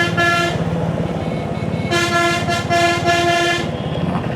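A bus horn honking: one blast ending about half a second in, then a run of blasts with short breaks from about two seconds in. Underneath, the steady low rumble of the Royal Enfield Hunter 350's single-cylinder engine running.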